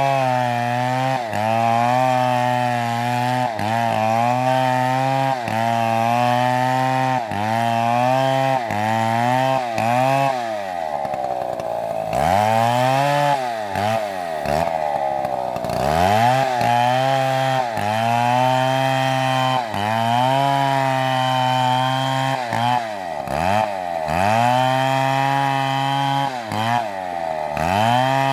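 Large two-stroke chainsaw, sold as an MS720, running hard while felling a big tree. Its engine note repeatedly dips and climbs back every second or so. About a third of the way in, the revs drop further before rising again, and the dips become deeper after that.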